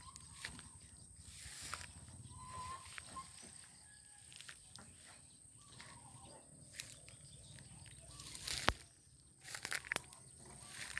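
Faint outdoor ambience: a steady high-pitched whine, a couple of short chirps near the start, and scattered clicks and knocks, one louder knock about eight seconds in.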